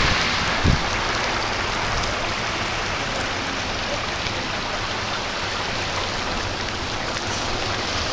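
Heavy rain shower pouring down steadily, a dense even hiss of rain, with one brief low thump just under a second in.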